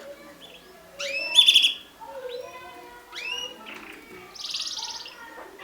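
Mosaic canaries chirping and singing: a string of short rising chirps, a loud burst of chirps about a second and a half in, and a rapid buzzy trill near the end.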